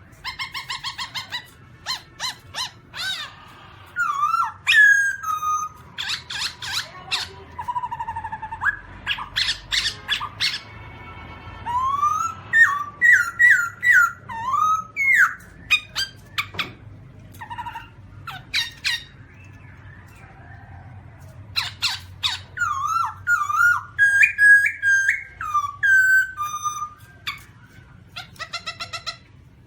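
Black-throated laughingthrush calling: clear whistled notes, some rising or falling, mixed with fast runs of harsh chattering notes, in bouts with short pauses between.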